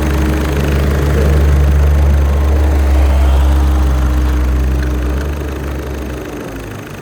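Audi 1.6 TDI (CAYC) four-cylinder common-rail diesel engine running steadily at idle. It quietens and drops slightly in pitch over the last second or two.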